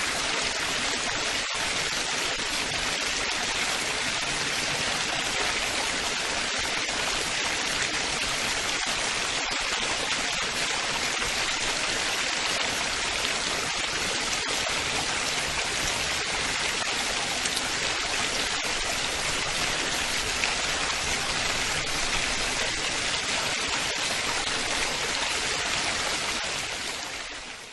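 Steady babbling of running water, like a stream, fading out near the end.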